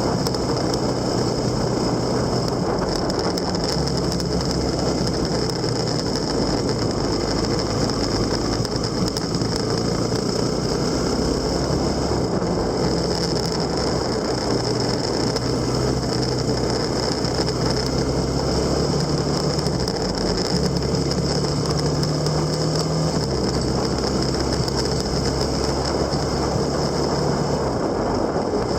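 A vehicle engine running steadily under wind and road noise while on the move, its low note changing pitch in steps a few times, with a thin steady high whine throughout.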